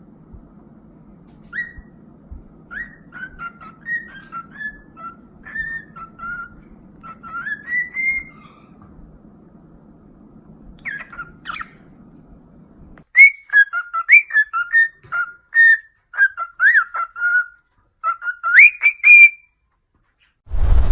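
A pet parrot whistling a string of short notes that glide up and down. The whistling is fainter over a low hum at first and becomes louder and clearer about two-thirds of the way through. A short low thump comes right at the end.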